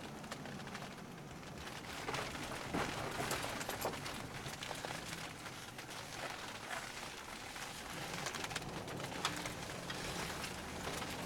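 Road and engine noise inside a moving car on snowy roads: a steady low hum and rumble with scattered small clicks and crackles.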